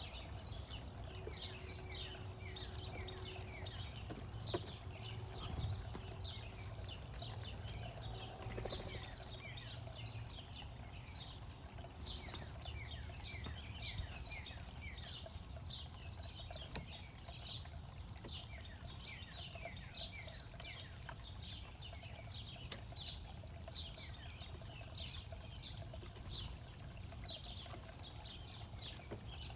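Birds chirping continuously, many short falling notes a second overlapping one another, over a steady low rumble.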